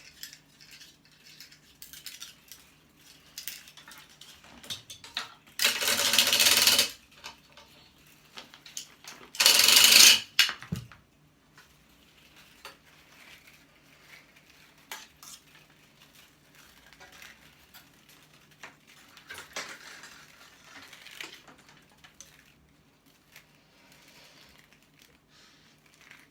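Metal scrap being handled while copper is pulled out of a small motor: light metallic clinks and scrapes, with two louder rasping bursts about a second long, around six and ten seconds in.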